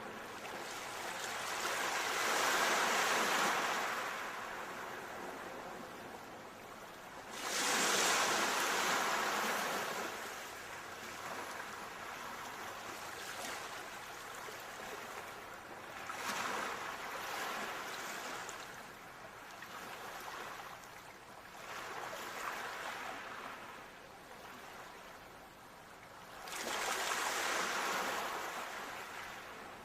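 Ocean waves washing onto the shore, the surf swelling and falling away in slow surges every several seconds, three of them louder than the rest.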